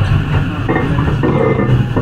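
Running noise inside a Tokyu 9020 series commuter train with a Mitsubishi full-SiC MOSFET inverter drive: a steady low hum. An onboard announcement starts over it about a second in.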